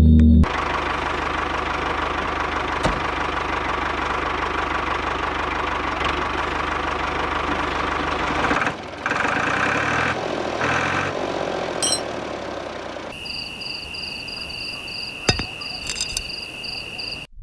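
A small motor runs steadily with a low hum and buzz for about eight seconds, then the sound drops and changes. In the last few seconds a steady high tone takes over, with a pulsing higher tone above it.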